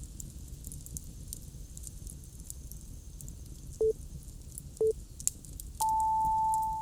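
Timer start signal: two short beeps a second apart, then one long, higher beep, the countdown that starts a pomodoro work session. Under it, a campfire crackles steadily.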